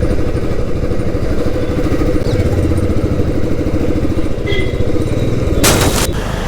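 Royal Enfield Classic 350's single-cylinder engine running steadily while riding, its exhaust pulsing. A short, loud hiss cuts in near the end.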